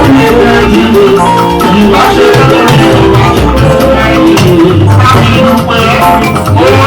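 Loud band music playing without a break: bass and pitched instruments over a steady beat of drums and shakers.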